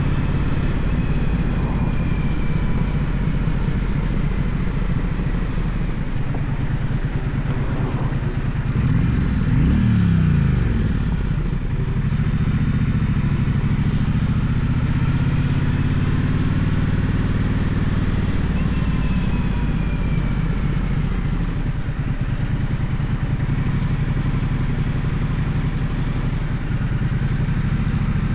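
Gaokin GK1200 motorcycle engine running steadily while riding. The revs rise and fall quickly once, about a third of the way in.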